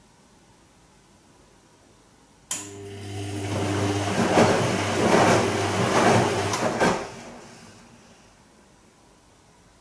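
Bosch Serie 2 Vario Perfect washing machine on its gentle silk programme, its drum turning in one short stretch. The motor starts suddenly about two and a half seconds in with a low hum, the laundry tumbles over in about four swishing surges, and the drum stops near the end, the sound dying away.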